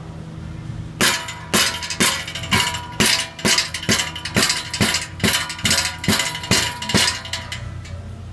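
Metal striking a Honda Element's loose exhaust heat shield: a run of about fourteen ringing clangs, a little over two a second, starting about a second in and stopping near the end. The shield's bolts have rusted away, which is what lets it rattle.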